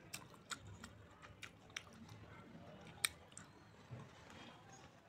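Close-up chewing of a mouthful of naan with palak paneer: soft, wet mouth sounds with scattered sharp clicks, the loudest about three seconds in.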